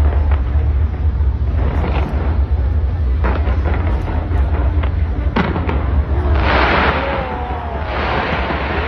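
Fireworks going off on a skyscraper's facade: sharp bangs every second or so over a deep steady rumble. A dense hissing crackle of sparks builds about six seconds in.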